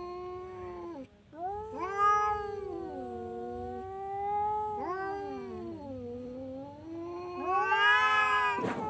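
Domestic cat yowling in long, drawn-out, wavering calls of several seconds each, with short breaks about a second in and about five seconds in; the loudest stretch comes near the end.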